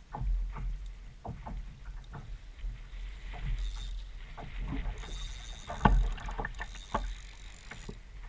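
Sit-on-top kayak on the water: irregular splashes and knocks of a paddle and gear against the plastic hull, the loudest knock about six seconds in.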